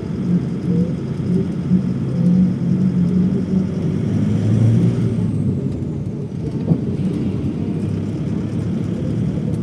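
Passenger airliner's engines running in a steady low drone with a hum, as heard on board.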